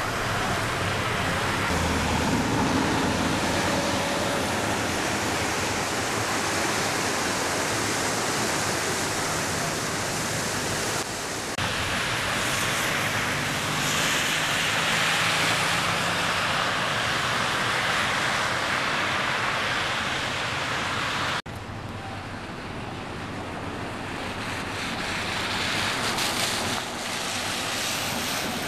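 Steady rush of heavy rain and running water, with abrupt changes in level about a third and two thirds of the way through.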